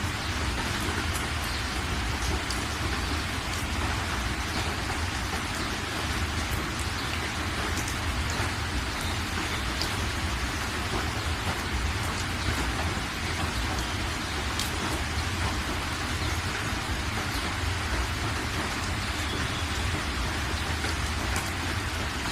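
Steady heavy rain, an even dense hiss with faint scattered drop ticks.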